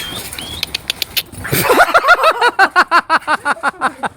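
An animal giving a fast run of short, pitched yelping calls, about six a second, each rising and falling. A few sharp clicks come just before.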